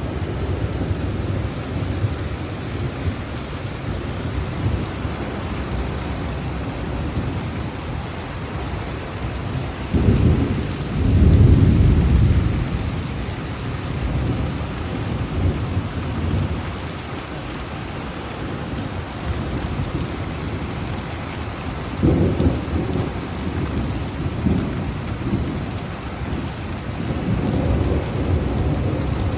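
Heavy rain falling steadily in a thunderstorm, with low rolls of thunder rumbling through it. The loudest roll comes about a third of the way in, and weaker ones follow later.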